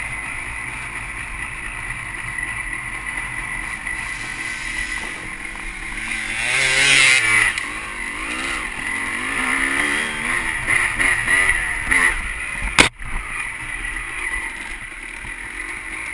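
Dirt bike engine running and revving, its pitch rising and falling through the middle, over steady wind noise on the microphone. A single sharp knock comes about three seconds before the end.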